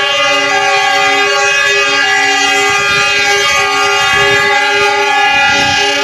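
Train horn sounding continuously, a loud chord of several steady tones that shift slightly as it is held, over a low rumble.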